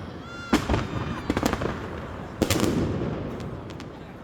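Fireworks going off: a brief whistle, then a string of sharp bangs and crackles, the loudest about two and a half seconds in, with a few fainter pops after it.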